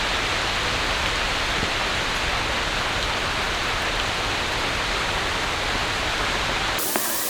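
Steady rain, an even hiss. Near the end it changes abruptly to a thinner, brighter hiss.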